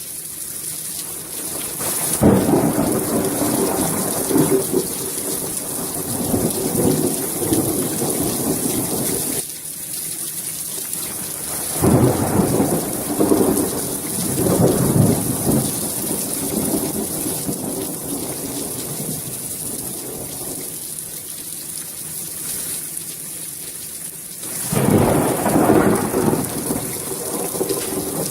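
Thunderstorm: steady rain hissing down, with three long rolls of thunder, about two seconds in, around twelve seconds in and again near the end.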